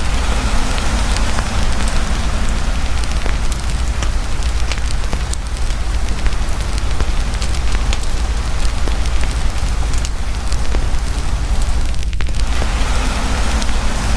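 Campfire crackling under heavy rain: a steady, loud hiss of pouring rain with sharp pops and crackles from the burning wood scattered through it, over a low rumble.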